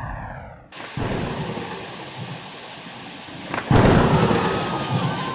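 Thunderstorm sound effect: steady rain with a loud clap of thunder about three and a half seconds in, which then rumbles on. It is preceded by a short falling tone that cuts off under a second in.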